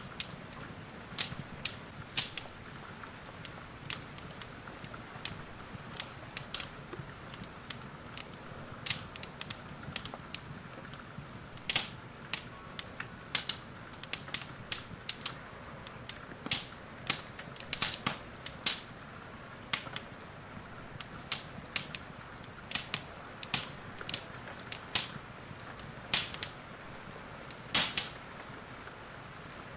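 Wood fire crackling in a fireplace, with irregular sharp pops and snaps, over a steady soft hiss of rain.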